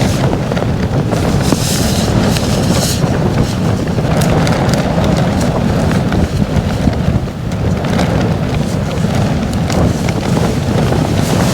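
Strong, gusty storm wind buffeting a tent and rumbling on a wind-muffled microphone: a steady low rumble that swells and eases with the gusts, with short hissing flurries.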